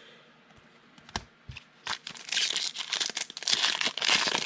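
Foil wrapper of a football trading card pack being torn open and crinkled. The crinkling starts about two seconds in, after a couple of light clicks.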